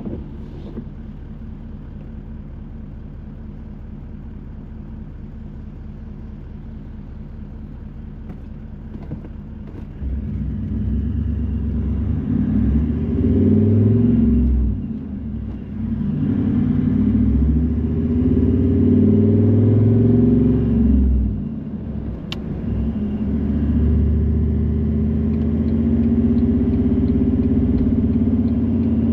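Car engine heard from inside the car, idling steadily at first, then pulling away about ten seconds in. The engine note rises, dips briefly twice, then settles into a steady cruise. A single sharp click comes shortly after the second dip.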